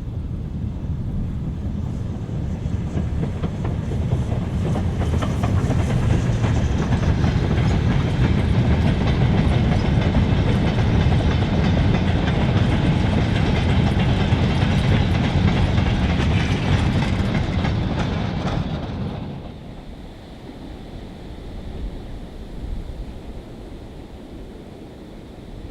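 Steam-hauled train passing by: the rail noise builds over several seconds, stays loud for about ten seconds, then drops away sharply about 19 seconds in.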